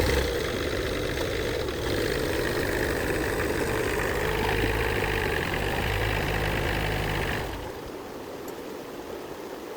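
A vehicle engine running steadily, then stopping about seven and a half seconds in, leaving a fainter steady hiss.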